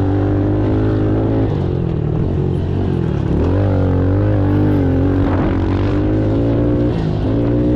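Pit bike engine running under throttle while riding. The engine note dips about three seconds in, then picks up again and holds steady.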